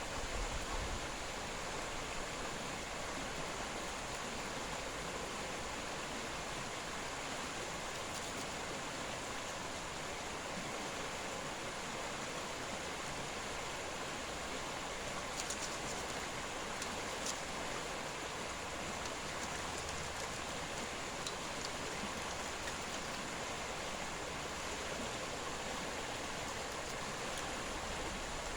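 A steady, even hiss with a faint high steady tone over it and a few faint ticks in the middle.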